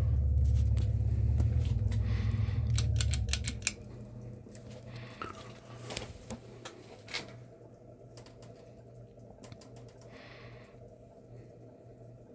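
42-inch ceiling fan running: a heavy low rumble, likely its airflow buffeting the microphone, drops away about three and a half seconds in. A string of sharp clicks and rattles follows for about four seconds, then a faint steady motor hum.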